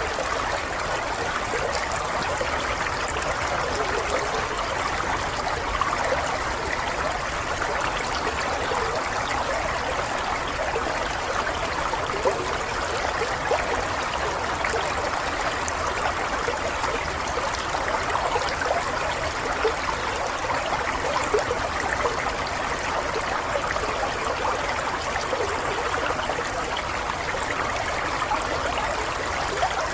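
Steady flowing water, like a stream running over stones, with small splashes and trickles throughout.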